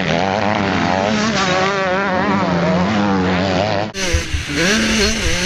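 Motocross bike engine revving, its pitch rising and falling quickly as the throttle is worked, heard on board from the rider's helmet. The sound briefly drops out just before four seconds in, then the engine continues.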